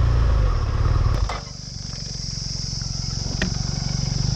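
Vehicle engine running loudly, then much quieter after a click about a second in, idling on with a steady high hiss over it. Another sharp click comes a little past halfway.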